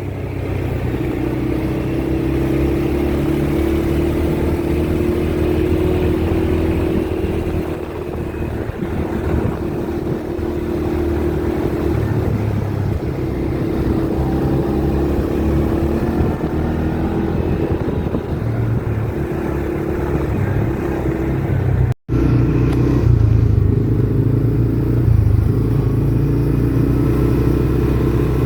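ATV engine running steadily under way, with small shifts in engine speed. It cuts out for an instant about two-thirds of the way through, then carries on.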